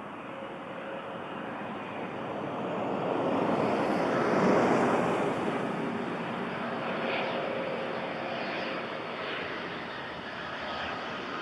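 Dassault Falcon 7X three-engined business jet passing on its arrival, its engine noise swelling to a peak about four seconds in and then slowly fading.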